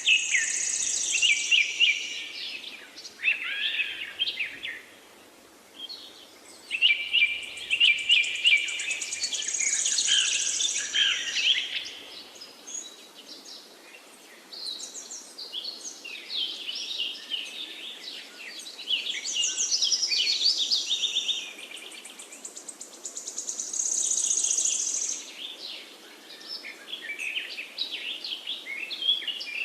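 Several songbirds chirping and trilling in overlapping bursts, with phrases starting and stopping every few seconds over a faint steady hiss.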